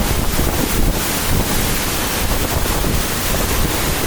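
Steady rush of a waterfall's falling water, with wind buffeting the microphone as a heavy, uneven low rumble.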